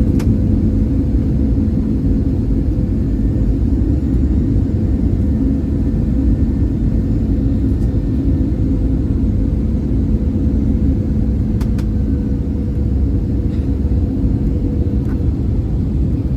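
Airbus A320-200 cabin noise in flight: a steady low rumble of engines and airflow, with a constant hum running through it.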